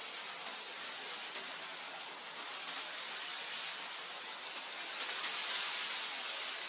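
Wind blowing across grassland: a steady hiss that swells a little about five seconds in.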